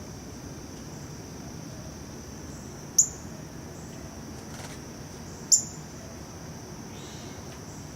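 Two sharp, high chip notes from a northern cardinal, about 3 s and 5.5 s in, over a steady high-pitched insect drone.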